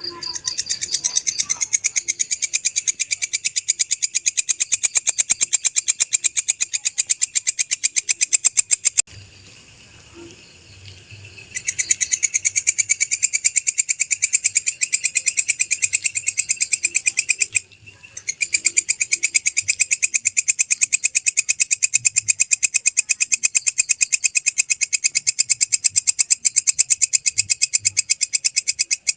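Walang kecek katydid (bush cricket) calling: a loud, high, fast and even pulsing chirr. It stops about 9 seconds in, starts again a couple of seconds later, and breaks off briefly near 17 seconds.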